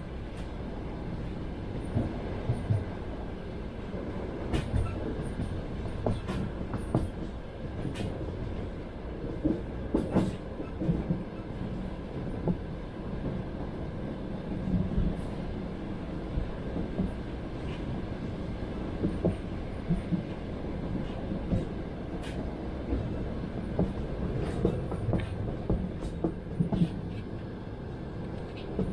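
Passenger train rolling along, heard from inside a carriage: a steady low rumble with the wheels knocking at irregular intervals over the rail joints.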